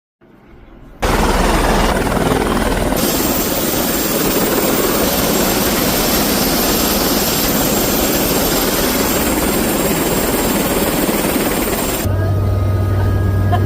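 Helicopter noise: a loud, steady rush of turbine and rotor sound starting about a second in, which changes abruptly near the end to a steadier low hum.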